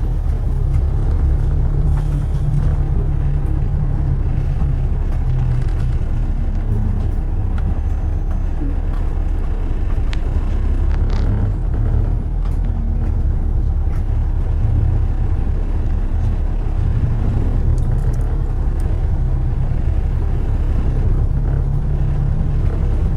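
Steady low rumble of road traffic and car noise, with a few faint ticks and knocks over it.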